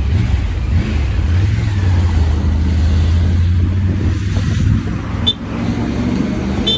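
Motorcycle engine running steadily at cruising speed with road and wind noise, a brief dip and a sharp click about five seconds in and another click near the end.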